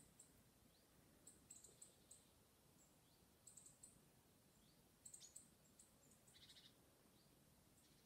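Faint bird chirps: clusters of short, high chirps and little upward notes, with one brief buzzy trill about six and a half seconds in.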